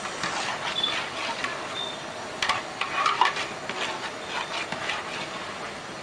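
Onion-and-tomato biryani masala sizzling in oil in a pot while being stirred with a ladle, with scrapes and clicks of the ladle against the pot, the sharpest about two and a half seconds in.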